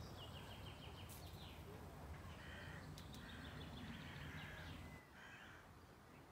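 Faint birdsong: a few short chirping trills over a low outdoor rumble, which drops away about five seconds in.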